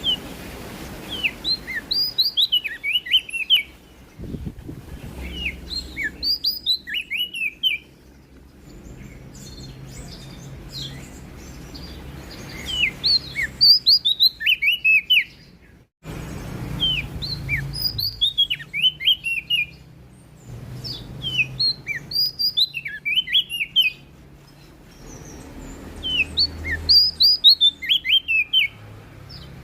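A prenjak daun (leaf warbler) singing: phrases of quick, high, downward-sweeping chirps, each lasting two to three seconds and repeated about every four to five seconds, over a low background rumble.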